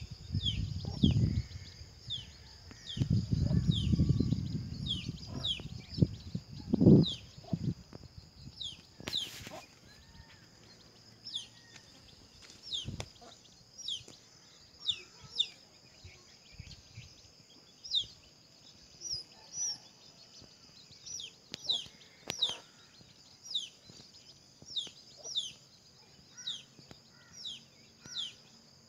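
A bird calling over and over: short, sharp, high notes that slide downward, roughly one a second. A steady high-pitched hum runs underneath. Low rumbling of wind on the microphone dominates the first seven seconds, then dies away.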